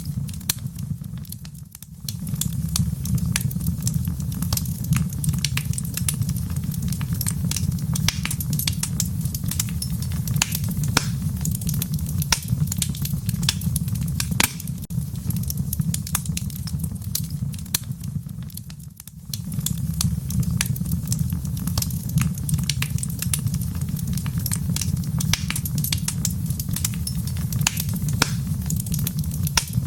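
Wood fire crackling, with many sharp pops and snaps over a steady low rumble. The low rumble briefly drops away twice, about two seconds in and again near nineteen seconds.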